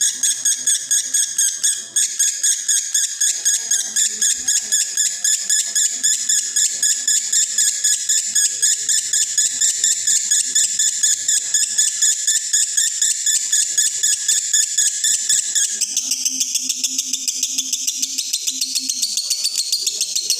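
Male lovebird in breeding condition singing a long, unbroken konslet chatter: a rapid, high-pitched run of many notes a second. The pattern of the notes shifts about three quarters of the way through.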